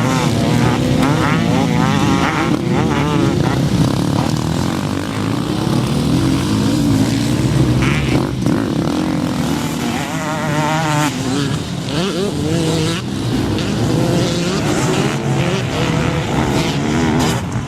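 Several motocross bikes running on the track, their engines revving up and down again and again with the pitches overlapping.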